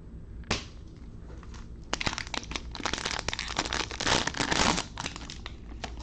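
Plastic wrapper of a trading card pack being torn open and crinkled, with a brief swish about half a second in and a run of sharp crackles from about two seconds in to near the end.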